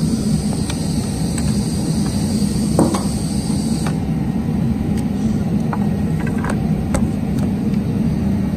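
Steady low background rumble, with a hiss for the first four seconds or so and scattered light clicks and taps.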